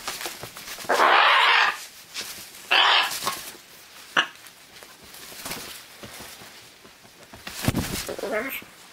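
Loud, harsh animal calls: two long ones in the first few seconds, a short sharp one a little later, and a rougher run of calls near the end.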